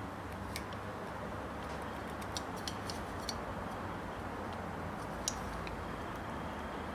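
Scattered light, irregular ticks and clicks of small metal parts being handled, over a steady background hum.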